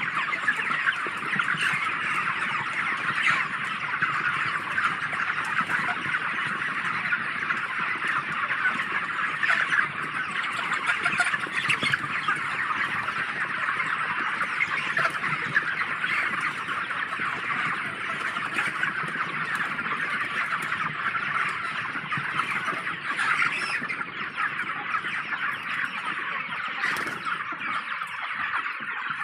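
A large flock of 38-day-old broiler chickens in a shed, making a dense, unbroken din of overlapping chirps and clucks at a steady level.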